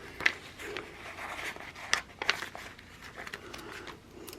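Paper handling at close range: sticker sheets and planner pages rustling, with scattered light clicks and ticks as stickers are peeled and pressed down.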